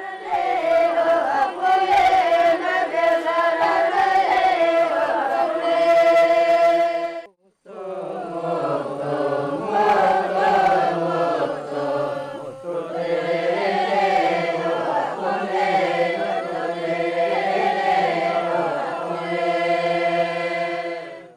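A group of voices chanting a song together, in two long phrases with a short break about seven seconds in.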